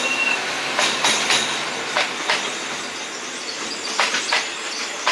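Ordinary 3rd-class passenger train running along the track: a steady rolling rumble with the wheels clacking over rail joints in pairs, three times. A thin, high wheel squeal fades out just at the start.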